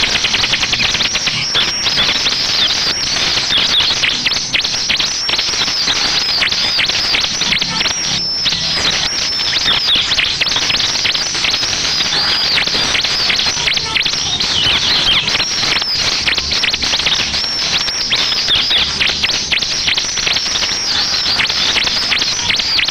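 Ciblek (bar-winged prinia) song: a dense, unbroken chatter of rapid, high, arching chirps, played as a lure recording to get caged prinias to answer and sing.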